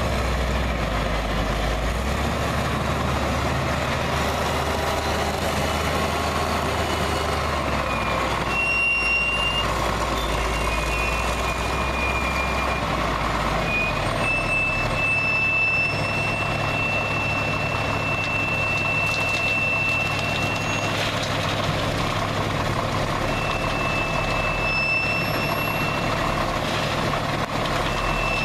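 Heavy machinery at work while a front loader loads gravel into a dump truck: engines running with revs stepping up and down, and a high steady whine that comes and goes through the second half.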